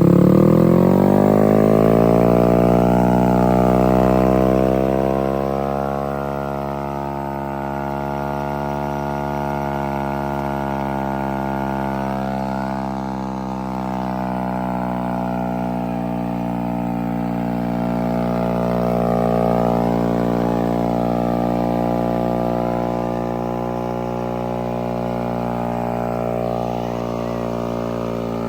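Engine-swapped moped engine held at high revs while the rear tire spins in place in a burnout. The revs climb over the first few seconds, then hold at a steady, loud drone that swells slightly about two-thirds of the way through.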